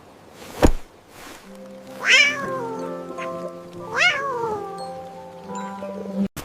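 A cat meows twice, about two seconds apart, each call rising then falling in pitch, over soft background music with held notes. A single sharp knock comes just before.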